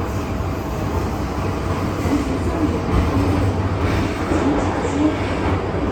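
MTR Tsuen Wan Line M-Train running between stations, heard from on board: a steady rumble of wheels on the track.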